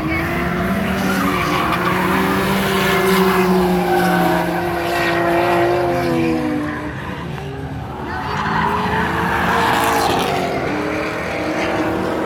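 Drift cars sliding through the course: engines revving up and down at high throttle over tyre screech, the noise swelling twice as cars pass.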